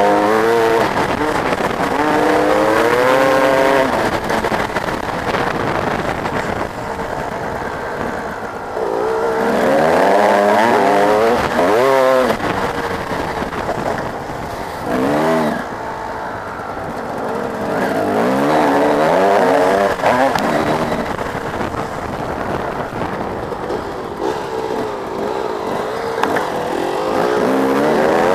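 Motocross bike engines revving hard, their pitch climbing and dropping again and again through gear changes and throttle blips as the bikes pass in waves. The bikes are loudest near the start, around ten and twenty seconds in, and at the end.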